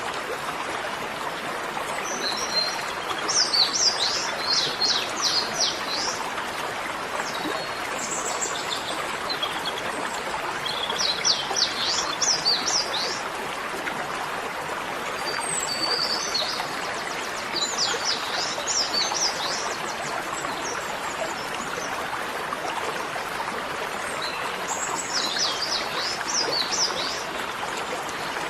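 A songbird singing several short phrases of quick, high chirping notes, repeated every few seconds over a steady rushing noise like running water.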